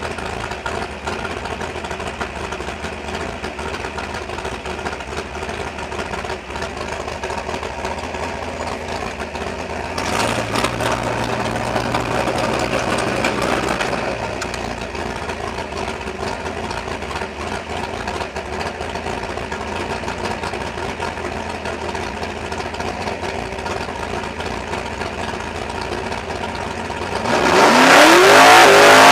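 Super Stock drag car's engine idling, heard from inside the cabin, with a louder stretch of a few seconds about ten seconds in. Near the end it suddenly gets much louder and the pitch climbs steeply as the car launches down the strip at full throttle.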